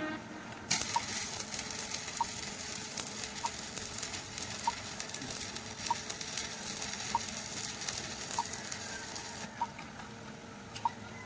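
Electric arc welding: the steady crackling sizzle of the welding arc, starting about a second in and stopping near the end.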